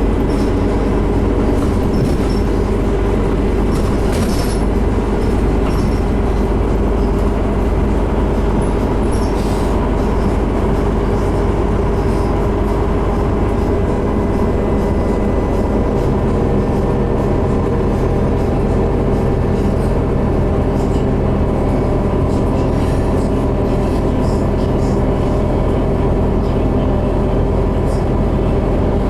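Scania CN270UB city bus heard from inside while under way: a steady engine drone over road and cabin noise, with the engine note changing about halfway through.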